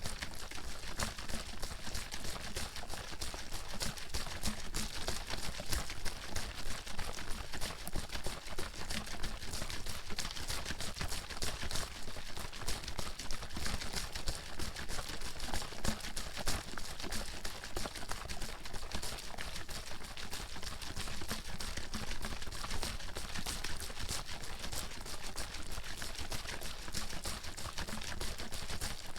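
Water sloshing in a bottle shaken steadily and rapidly: a continuous stream of quick splashes and knocks with no pauses.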